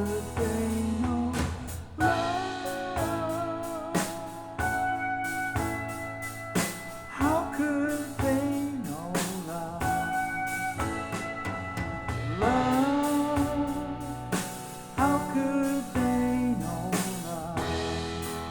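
Recorded music playing over Harbeth SHL5+ loudspeakers driven by a KT88 valve amplifier in ultra-linear mode: a country-rock song with drums and guitar.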